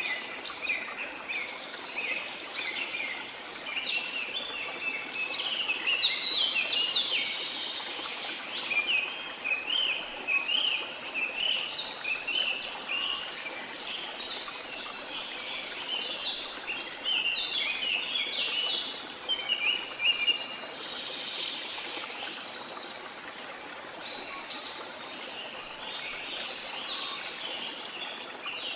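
Many birds chirping and singing in quick, overlapping phrases over the steady rush of a waterfall. The chirping thins out for several seconds about two-thirds of the way through.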